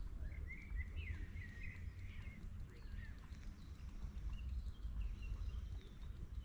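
A small bird singing a run of quick chirping, warbling phrases, over a steady low rumble of wind on the microphone.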